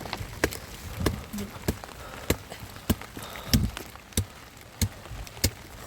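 A steady series of sharp knocks, a little under two a second, with the loudest about three and a half seconds in, over a faint background hiss.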